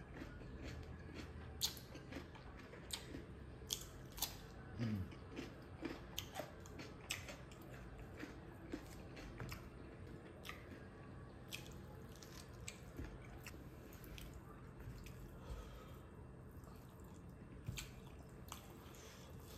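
Close-up chewing of a meal eaten by hand: crunchy bites of raw cucumber and mouthfuls of rice with smoked pork. Many sharp, irregular wet mouth clicks and smacks come through, thicker in the first half.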